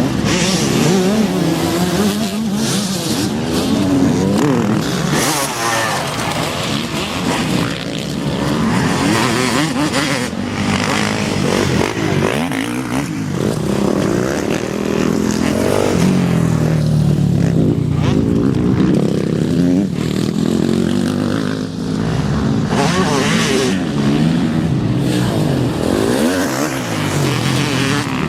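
Several motocross bikes racing, their engines revving up and down in overlapping rises and falls as they accelerate, shift and back off around the track.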